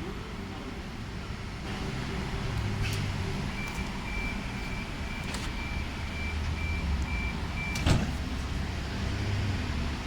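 Low, steady rumble of an electric suburban train at the station platform, with a faint pulsing high tone in the middle and a single sharp clack about eight seconds in.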